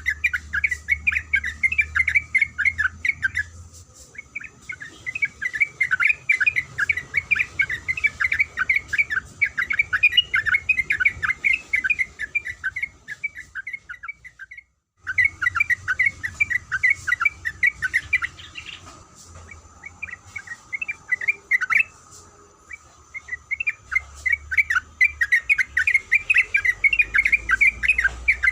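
Yellow-vented bulbul (trucuk) singing a long, rapid chattering song in runs of quick notes, broken by short pauses. The sound cuts out completely for a moment about halfway through, and a faint steady high hum runs underneath.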